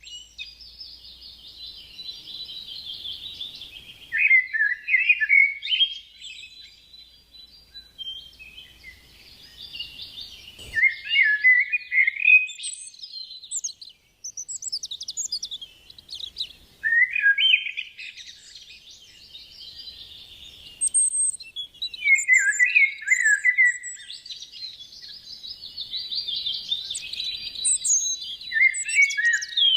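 A songbird singing repeated warbling phrases, each a few seconds long, the bright high chatter dropping into lower trilled notes at the end of each phrase.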